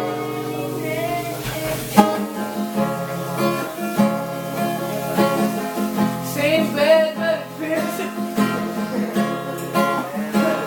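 Acoustic guitar strummed in steady chords, accompanying a voice singing a pop ballad, with vibrato on held notes in the second half.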